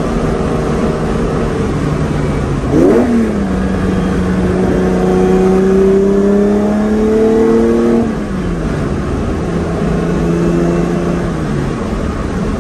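The Ferrari 365 GTC/4's 4.4-litre V12 heard from inside the cabin with the windows down: a quick rev blip about three seconds in, then the engine pulls with its note rising slowly for about five seconds before falling back to a steady lower cruise.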